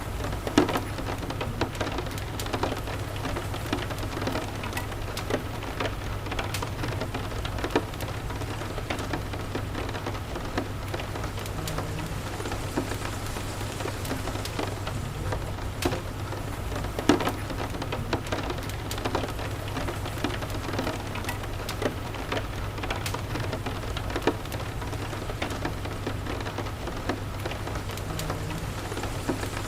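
Steady rain, with many small, sharp drop taps scattered over a continuous patter, above a constant low rumble.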